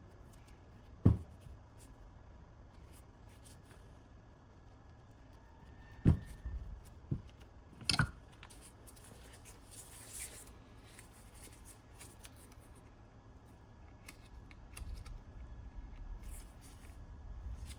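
Faint handling noises with a few sharp knocks: one about a second in, then three more between about six and eight seconds in.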